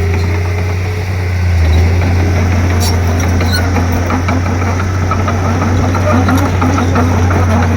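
Komatsu D31P bulldozer's diesel engine running steadily as a deep, constant drone, with scattered light clanks and clicks from the machine working.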